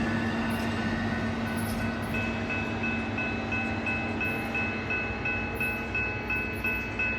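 Railroad maintenance vehicle going by on the track, its steady hum fading. From about two seconds in, a high bell-like tone rings in even pulses about three times a second.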